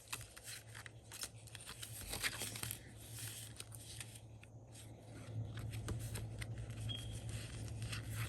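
Sticker sheets and paper pages being handled: irregular light rustles, crinkles and small ticks, over a steady low hum that grows louder about five seconds in.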